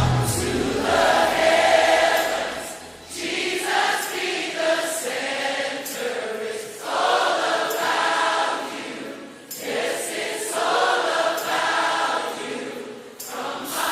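A choir singing in phrases of about three seconds, with short breaks between them.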